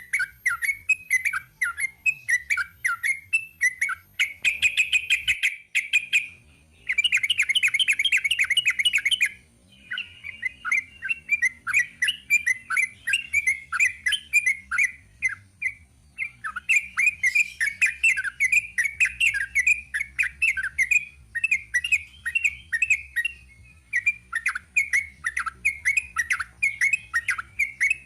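Sooty-headed bulbul singing a long, fast-paced song of quick chirped notes, breaking into dense rapid trills about four seconds in and again about seven seconds in.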